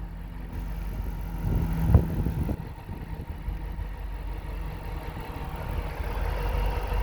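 2010 Dodge Challenger SRT-8's 6.1-litre HEMI V8 idling steadily, with a brief knock about two seconds in.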